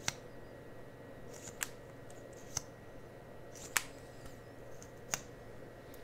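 Five sharp, short clicks at uneven intervals, about one every second or so, with softer brief rustles between them, from cosmetic products and tools handled close to the microphone as ASMR triggers.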